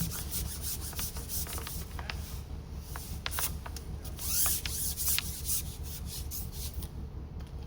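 Rubbing and scraping handling noise with scattered clicks and taps, as a hooked fish is played on a fishing pole.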